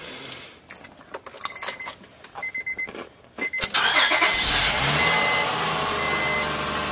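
2004 Honda Pilot's 3.5-litre VTEC V6 starting about three and a half seconds in, catching at once and running steadily. The car's warning chime beeps about once a second throughout.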